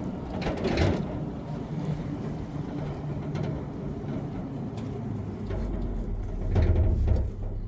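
A motor vehicle's engine running steadily, with a deeper hum joining about five and a half seconds in and getting louder near the end.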